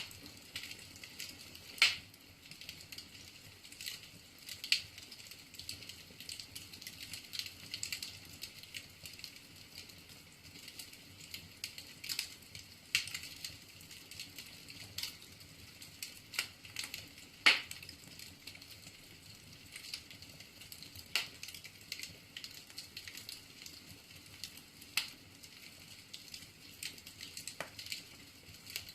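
Firewood burning in a fireplace: a steady hiss with sharp crackles and pops at irregular intervals, two louder pops about two seconds in and a little past halfway.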